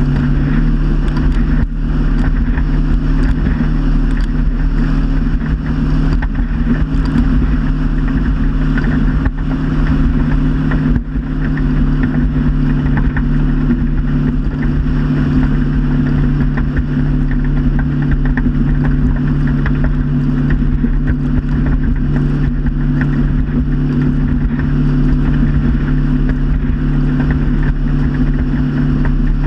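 Motorboat engine running steadily at cruising speed, a constant low drone mixed with the hiss of water and wind.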